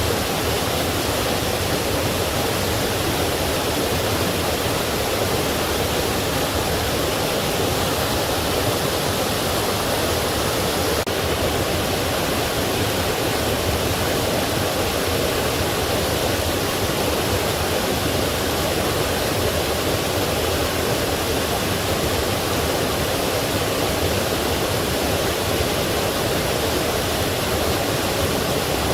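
Forest stream rushing steadily, a constant even wash of flowing water.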